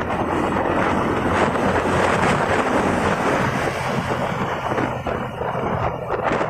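Wind rushing over the microphone on a moving motorcycle, a dense steady noise, with the low hum of engines and traffic beneath.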